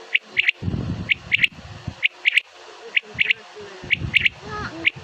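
Black francolin calling: short, harsh, high notes in phrases that repeat about once a second, each a single note followed by a quick double note.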